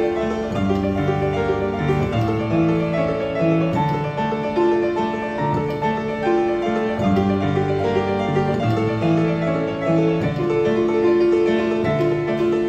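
Acoustic piano being played: a melody of held notes over lower bass notes, at an even, fairly loud level.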